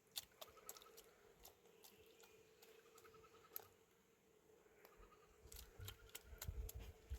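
Near silence with faint scattered clicks and short soft chirps; a low rumble rises over the last two seconds.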